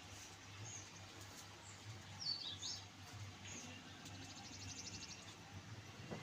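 Birds chirping: short high chirps repeating every second or so, a brief trill about two seconds in and a rapid ticking trill around four to five seconds in, over a faint low steady hum.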